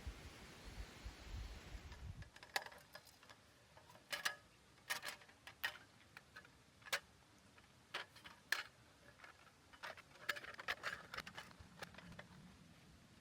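Irregular light clicks and taps, a dozen or so scattered over several seconds, after a brief low rumble at the start.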